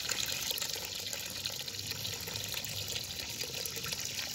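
Purple Power degreaser being poured in a steady stream into a tub of water.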